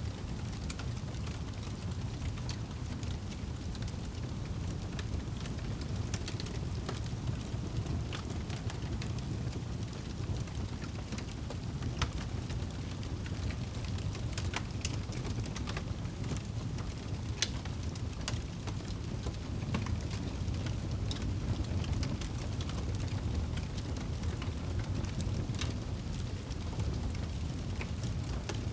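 Wood fire burning in a fireplace: a steady low rumble with scattered crackles and pops, two of them sharper about twelve and seventeen seconds in.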